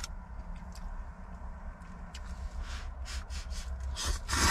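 Rubbing and scraping handling noises, likely food being scooped into a box, with scattered clicks and a louder scrape about four seconds in, over a steady low rumble of wind on the microphone.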